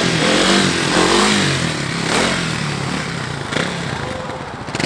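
Kawasaki KLX 300's single-cylinder four-stroke engine revving hard in first gear for a wheelie, its pitch rising and falling, loudest in the first couple of seconds, then easing off and growing quieter.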